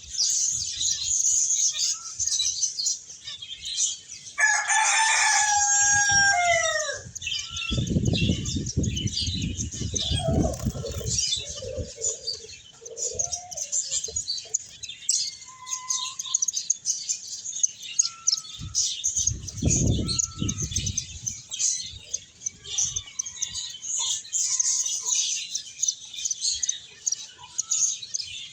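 Pet finches chirping constantly in quick high twitters. About four seconds in, a rooster crows once, a call of about two and a half seconds that falls at the end. Twice there are a few seconds of low fluttering noise.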